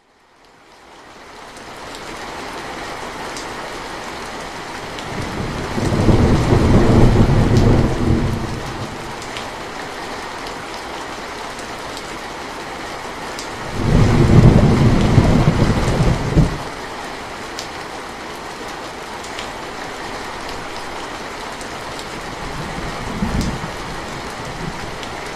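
Steady rain, fading in over the first couple of seconds, with two long rolls of thunder, the first about six seconds in and the second about halfway through, and a brief smaller rumble near the end.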